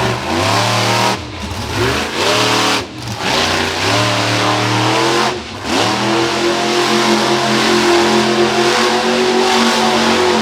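Monster truck engine revving hard, with three brief throttle lifts in the first half, then held at high revs for about four seconds before dropping off at the end.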